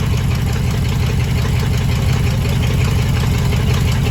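1980 Chevy K30 pickup's V8 engine idling steadily, just brought to life for the first time after sitting.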